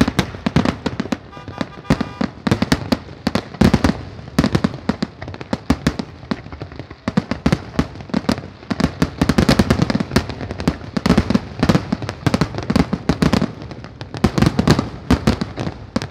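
Fireworks finale: a rapid, unbroken barrage of overlapping bangs and crackling reports, several per second, picked up by a phone's microphone.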